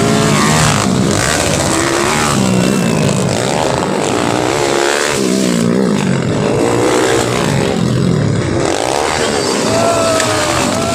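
Several underbone motorcycle engines racing, loud and continuous, their pitches rising and falling as the riders rev up and back off.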